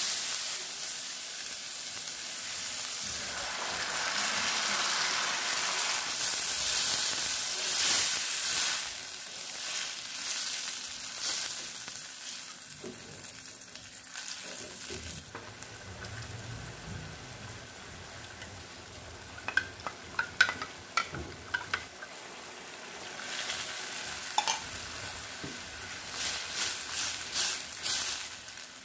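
Diced carrots, peas and onion frying in oil in a stainless steel pan, sizzling while a plastic spatula stirs them. The sizzle dies down about twelve seconds in, with a few sharp spatula clicks against the pan, then picks up again near the end under fast stirring.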